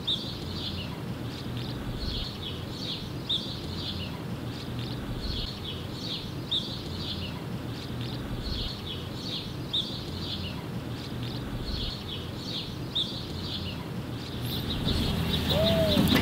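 Small birds chirping, short high chirps repeating every half second or so, over a steady low outdoor rumble. Near the end the noise grows louder and a voice comes in.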